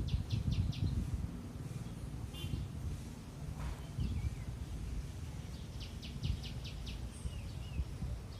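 A bird calling: a quick run of about five high notes near the start, repeated about six seconds in, with a few short wavering chirps in between, over a low rumble.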